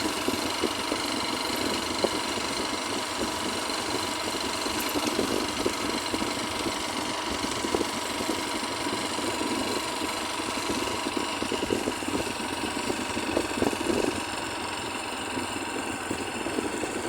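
Heavy rain falling steadily, a dense continuous patter.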